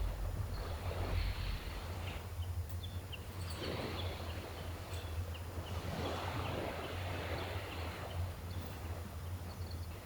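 Gentle sea waves washing ashore, swelling and falling back about every two to three seconds. A few short, high bird chirps come in the middle, over a steady low rumble.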